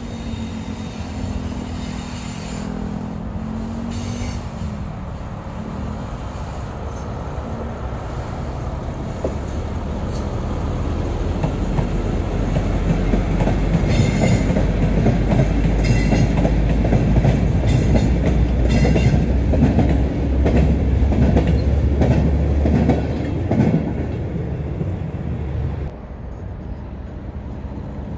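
A yellow SNCF Infra works train, locomotive and wagons, passing close by. The locomotive's drone and rumble build as it nears, then the wagons clatter over the rail joints with brief squeals. The sound drops away suddenly a couple of seconds before the end.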